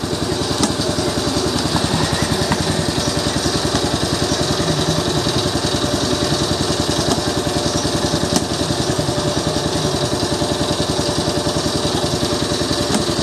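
A brand-new Baja mini bike's small single-cylinder four-stroke engine idling steadily in an even, quick pulse. The engine is on its first break-in run.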